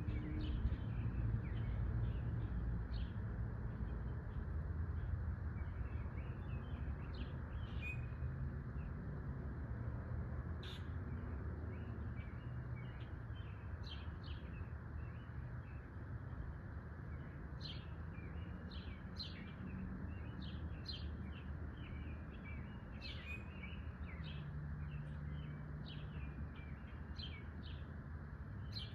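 Small songbirds chirping and twittering, many short scattered calls that grow busier in the second half, over a steady low background rumble.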